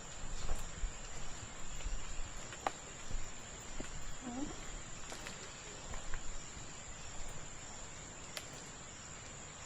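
Rainforest ambience dominated by a steady, high-pitched insect drone, with some low thumps in the first few seconds and a short faint call about four seconds in.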